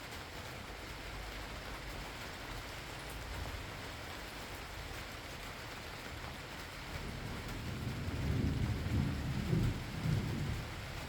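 Steady rain falling, with a low rumble of distant thunder swelling about seven seconds in, peaking and fading away near the end.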